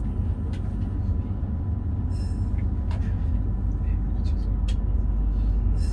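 Meitetsu Panorama Super electric train running with a steady low rumble, a faint steady tone and a few sharp clicks, as it slows for a station stop.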